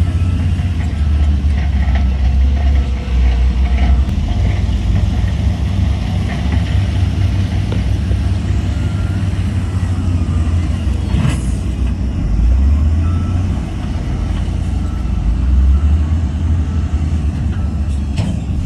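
Heavy diesel earthmoving machinery, a bulldozer or dump truck, running steadily with a low drone that swells and eases. There is a single sharp knock about eleven seconds in and a few lighter clicks near the end.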